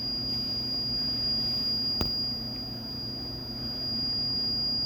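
A steady, high-pitched electronic whine with a low electrical hum beneath it, and a single sharp click about two seconds in.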